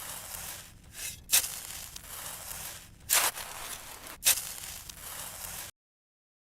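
Gritty material crunching and scraping in sharp strokes about a second and a half apart, each trailing off into a rustle; it cuts off abruptly near the end.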